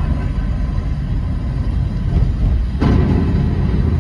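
Steady low rumble of road and engine noise heard inside a moving car's cabin, growing louder about three seconds in.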